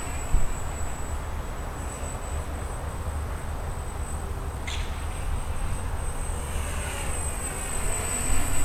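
X250 quadcopter's motors and propellers whining at a distance, the pitch gliding up and down as it flies about, under a steady low rumble of wind on the microphone.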